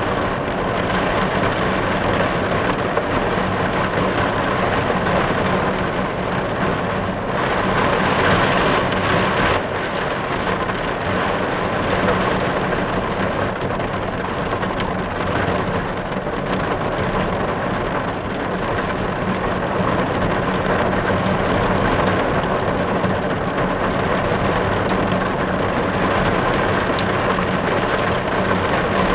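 Steady heavy rain falling on a car's roof and windows, heard from inside the car.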